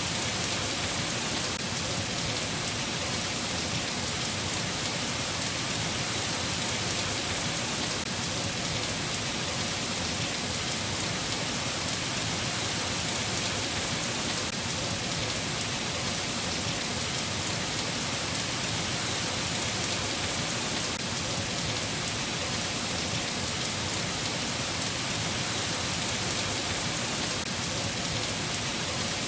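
Steady rain falling, an even hiss with no breaks or thunder claps.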